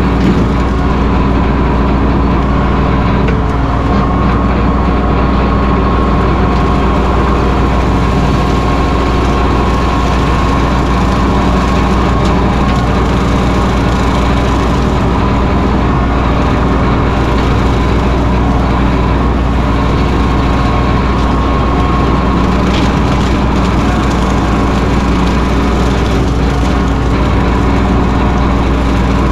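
Mahindra 1626 sub-compact tractor's diesel engine running steadily.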